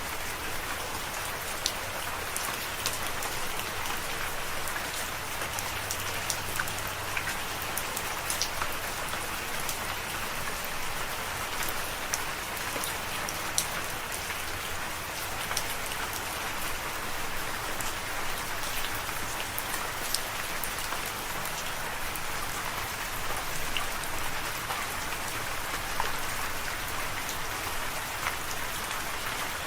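Steady rain: an even hiss with many sharp drop taps scattered through it.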